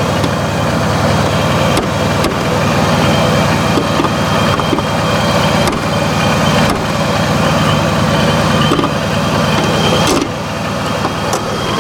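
Supercharged 6.4-litre 392 Hemi V8 idling steadily shortly after a cold start, with a few short sharp knocks over it.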